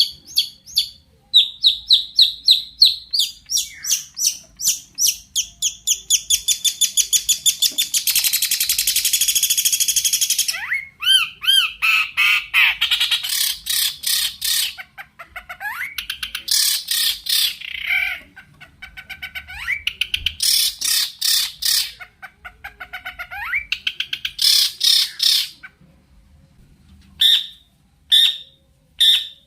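Long-tailed shrike (cendet) singing a fast, varied song laced with mimicked calls of other birds. Rapid repeated sharp notes speed up into a dense buzzy rattle about eight seconds in, then give way to harsh chattering notes and rising whistled glides, with short pauses near the end.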